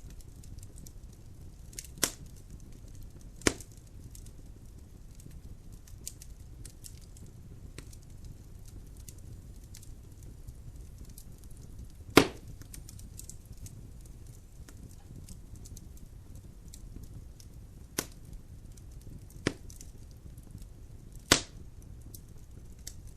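Logs burning in a fireplace: about six sharp pops and cracks spaced a few seconds apart, the loudest about twelve seconds in, with fainter small ticks over a steady low rumble of the fire.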